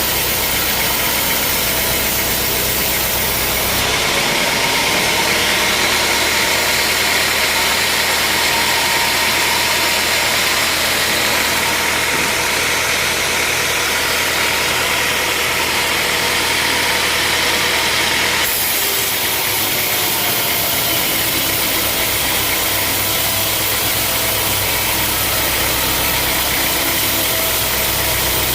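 Heavy sawmill machinery running steadily with a loud mechanical drone; the sound turns hissier and brighter about four seconds in and changes back abruptly past the eighteen-second mark.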